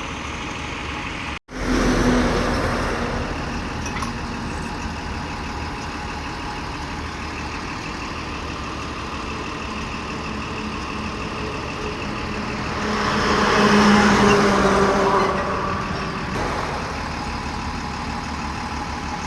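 Heavy truck engine running steadily, with a louder swell of engine noise about 13 to 15 seconds in that then dies back. The sound cuts out sharply for a moment about a second and a half in.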